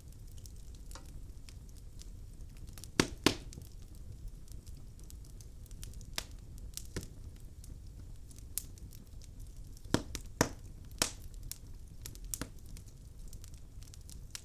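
Wood fire crackling and popping: scattered sharp pops over a low steady rumble, with the loudest pops about three seconds in and again around ten seconds.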